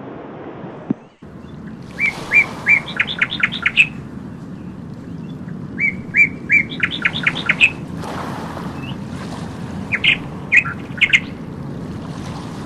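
A songbird singing the same quick phrase three times, a few short chirps running into a fast trill, over a steady rushing background.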